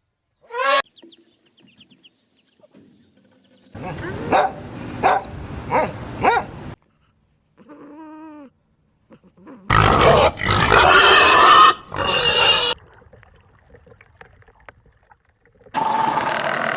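A string of different animal calls cut one after another with short silences between: a brief rising call, a run of four loud pulses, a pitched call, then several louder calls.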